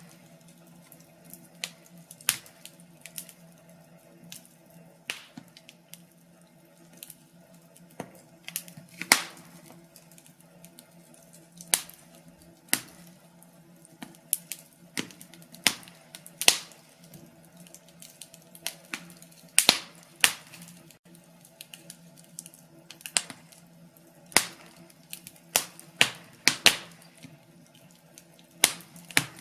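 Wood fire crackling in a fireplace: irregular sharp pops and snaps at uneven intervals, some much louder than others, over a faint steady hum.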